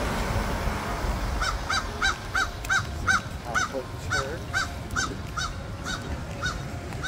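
A bird calling over and over in short, same-pitched squeaky calls, about three a second at first and slowing towards the end.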